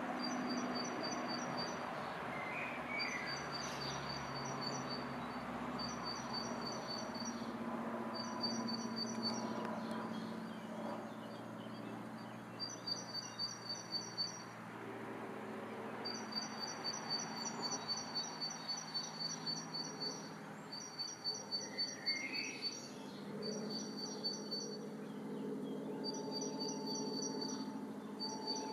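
Garden birdsong: a bird repeating short runs of rapid, high clicking notes, each run one to two seconds long with brief pauses between, over a low steady hum.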